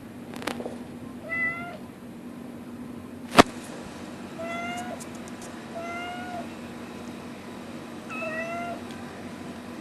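A domestic cat meowing four times, short meows a second or two apart. A single sharp click about a third of the way in is the loudest sound.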